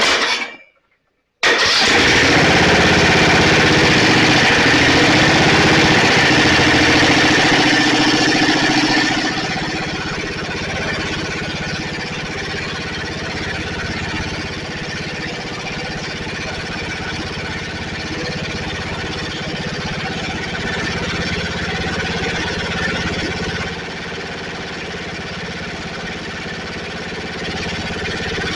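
Snapper riding mower's 12.5 hp Briggs & Stratton engine running steadily after being restarted, becoming noticeably quieter about nine seconds in.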